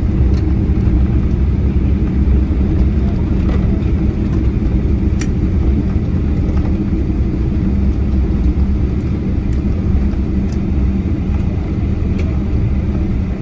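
Airliner cabin noise during the landing: a steady low rumble of engines and airflow, with a few faint ticks and rattles.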